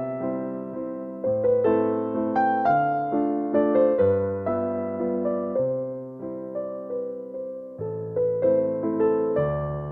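Slow, gentle piano music: notes struck one after another, each ringing and fading, with a deep bass note changing every couple of seconds.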